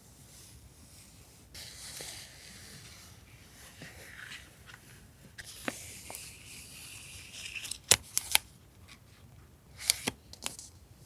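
Paper pieces being handled and rustled on a desk, with several sharp taps and clicks; the loudest clicks come about eight and ten seconds in.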